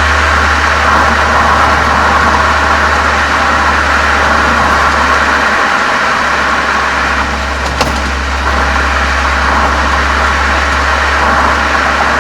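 Volkswagen Golf 7 GTI's turbocharged 2.0-litre four-cylinder running steadily, heard as a low exhaust drone through a Cox aftermarket muffler and chamber from a microphone mounted outside the car. There is a brief click about eight seconds in.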